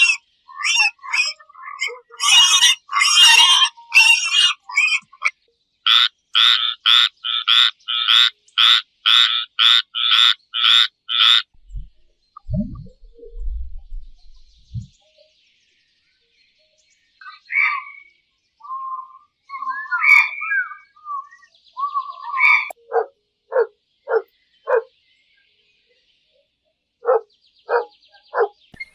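A series of animal calls. A dense burst of chirping is followed by a steady run of rasping calls, about two a second, then scattered calls and two short runs of pulsed calls.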